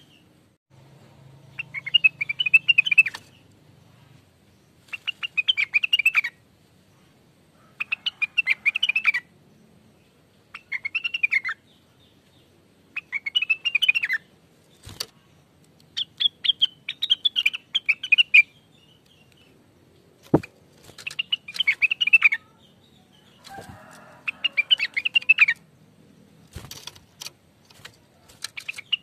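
A cucak wilis (Rengganis) leafbird singing in vigorous, gacor form. It repeats short phrases of quick, twittering notes every two to three seconds, with a few sharp clicks between phrases.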